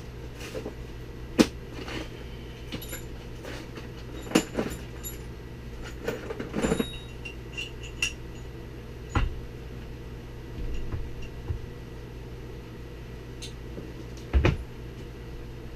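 Metal tools and differential parts being handled on a workbench: scattered sharp clinks and knocks, a few with a short metallic ring, over a steady low hum.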